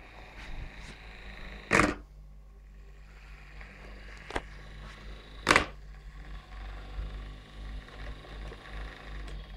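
Small portable USB fan running with a steady low hum. Two sharp knocks come about two seconds in and about five and a half seconds in, with a fainter click between them.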